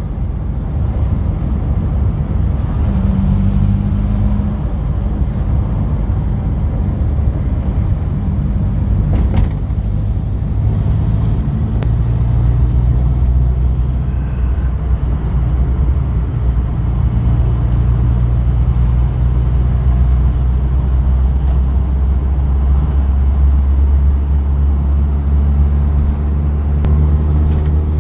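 A classic car driving along, heard from inside the cabin: a steady low engine drone and road rumble, the engine note shifting in pitch a couple of times as speed changes.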